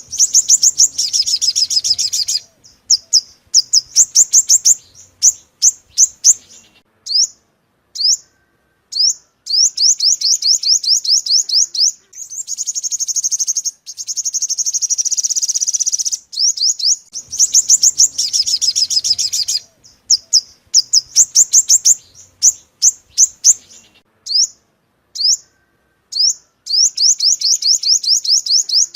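Yellow-bellied sunbird singing: rapid high trills of quick, sharply sweeping notes in repeated bursts with short pauses, a recorded song played as a lure call.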